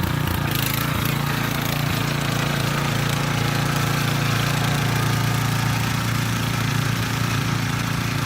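Mini tiller's 170 single-cylinder four-stroke petrol engine running steadily under load as it tills stony ground.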